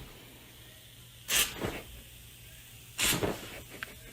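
A pet, likely a dog, gives two short, sharp, breathy bursts about a second and a half apart.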